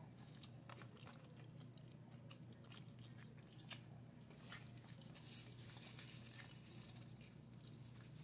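Faint crunching and chewing of a bite of crispy fried chicken sandwich with fire-roasted jalapeños: small crackles and mouth clicks, with one sharper click a little under four seconds in.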